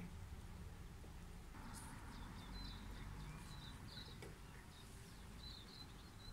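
Small birds chirping faintly, short high calls repeating from a couple of seconds in, over a low steady rumble.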